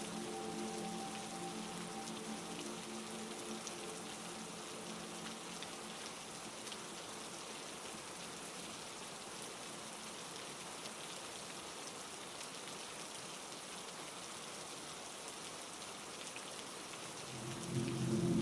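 Heavy rain falling in a steady, even hiss. A low sustained musical drone fades out over the first few seconds and swells back in near the end.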